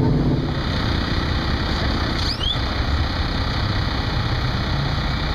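Steady low rumble of a motor vehicle's engine running, with outdoor traffic noise. A brief rising squeak comes a little over two seconds in.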